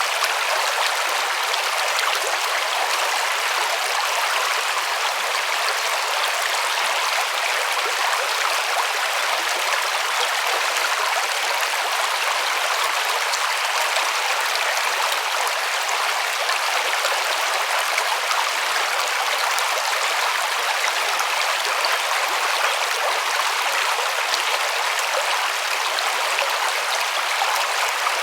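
River water rushing and splashing over rocks, a steady even rush with no lows.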